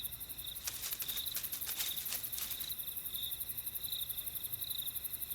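Night-time crickets chirping steadily: a pulsing trill at one high pitch, with a fast, fine ticking of other insects above it.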